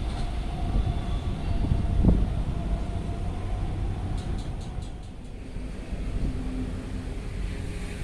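Passenger train passing at speed on the rails and going away, its rumble fading, with a heavy thump about two seconds in and a brief run of faint high clicks a little past the middle.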